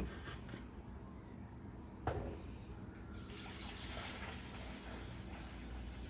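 Mr. Coffee drip coffee maker: a sharp click about two seconds in, then a steady hiss of hot water trickling through the machine from about three seconds in.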